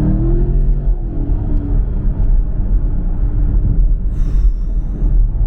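Car engine and road rumble heard from inside the cabin, the engine's pitch rising briefly near the start and then holding steady; the car has a cold air intake fitted and its sound tube removed. A short high whistle cuts in about four seconds in.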